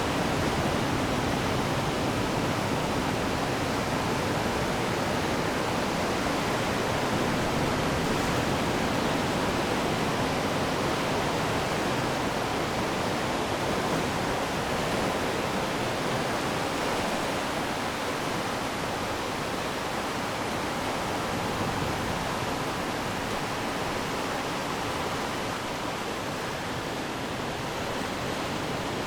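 Ocean surf washing on the shore as a steady, even rush of noise, easing slightly in the second half.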